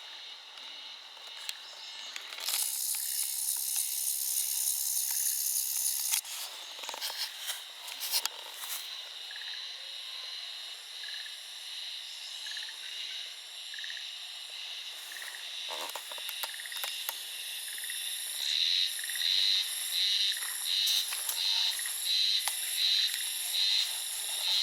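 High-pitched insect- or frog-like calling. A dense buzz starts suddenly a couple of seconds in and cuts off about four seconds later. Near the end, a pulsing call repeats about once or twice a second.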